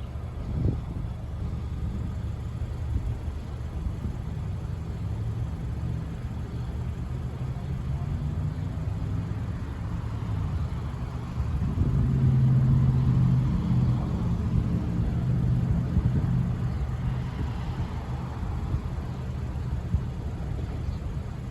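Empty iron ore cars of a freight train rolling past, a steady low rumble of steel wheels on rail that grows louder for a few seconds about halfway through.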